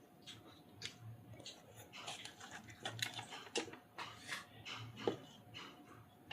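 Irregular close-up clicks and smacks of someone eating, with the loudest one about five seconds in.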